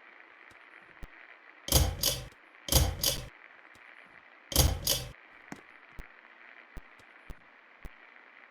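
Mechanism on a Hunter Savoy Deluxe ceiling fan being worked three times, each a loud double clack with a low thump, followed by several light scattered ticks over a faint steady hiss.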